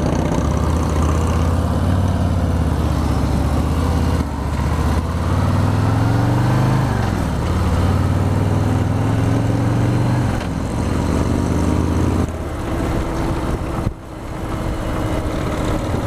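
Harley-Davidson Milwaukee-Eight V-twin motorcycle engine running under way, its pitch rising and falling several times as the bike accelerates and shifts, with wind noise over it.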